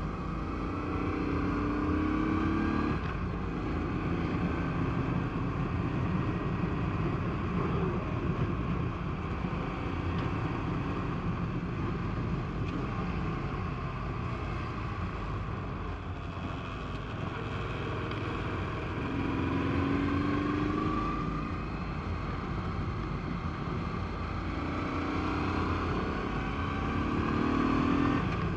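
Honda PC800 Pacific Coast's V-twin engine under way on a winding road, its pitch rising several times as it accelerates out of turns, over a steady low rush of wind noise.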